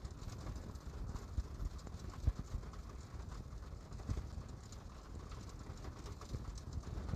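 Rain falling: a steady low rumble with irregular drops tapping and thudding.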